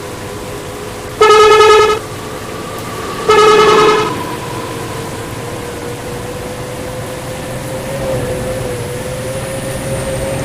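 Two short blasts of a bus air horn, each well under a second, the second ending with a brief drop in pitch, over a steady drone.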